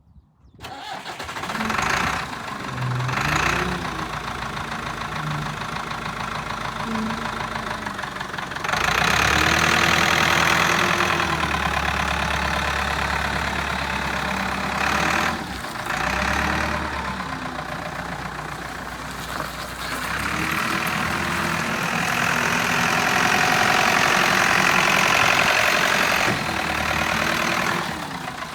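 Kalmar DB 4-500 diesel forklift engine starting, then running. It is revved up twice, for several seconds each time, with the pitch rising, holding and falling back to idle.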